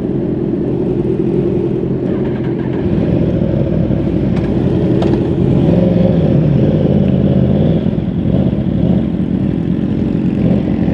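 Sport motorcycle engine running at low revs, its pitch wavering and rising a little around the middle.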